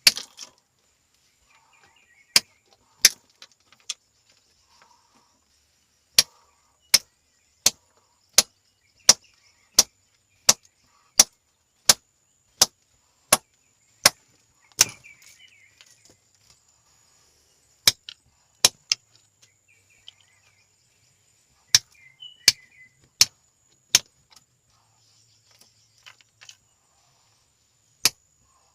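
Repeated sharp strikes in steady runs of about three every two seconds, with short pauses between the runs.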